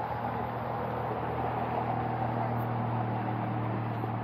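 A vehicle engine running, a steady low hum with a faint hiss of noise over it.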